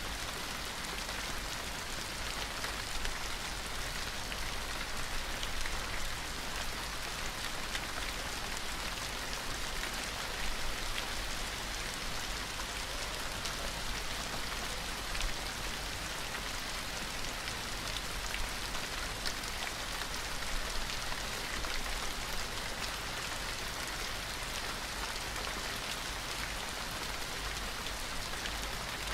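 Steady rain falling, an even hiss with fine patter of individual drops throughout.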